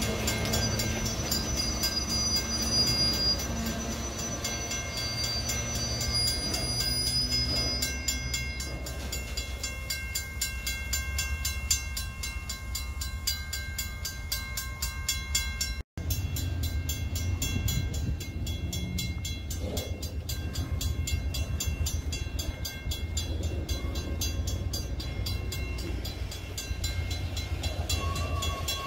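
Freight train's loaded lumber flatcars rolling past: a steady low rumble of wheels on rail, with thin high-pitched wheel squeal through the first half. The sound cuts out for an instant about halfway through.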